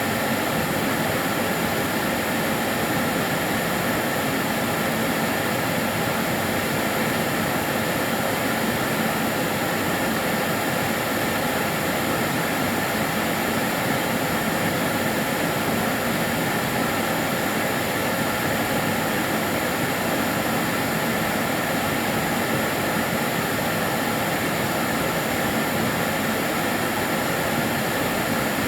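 Kärcher DS 6 Premium water-filter vacuum cleaner running steadily: an even rush of air with a thin, steady high whine over it.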